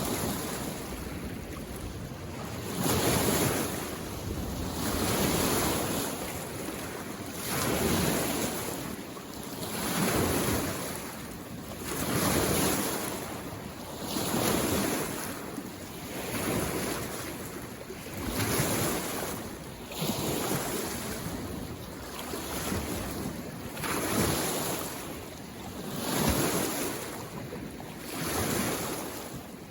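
Small waves on a mountain lake coming in against the shore, a water hiss that swells and fades with each wave about every two to three seconds.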